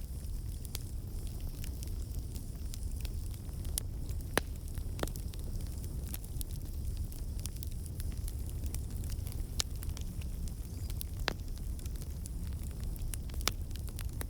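Campfire burning: a steady low rumble of flame with irregular crackles and pops of burning wood, and a handful of louder snaps spread through.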